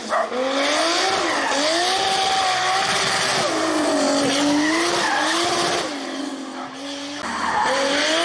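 Nissan 350Z rally car's V6 engine revving hard at speed, its pitch rising and falling again and again as the driver accelerates, lifts and changes gear, over a hiss of tyre noise. It drops away briefly near the end and comes back louder.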